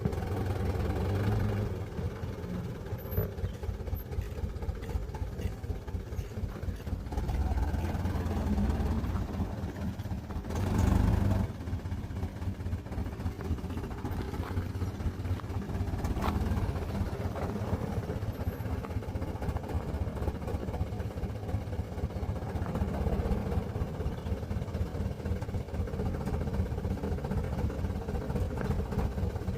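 Truck engine running steadily, with a louder surge about ten seconds in.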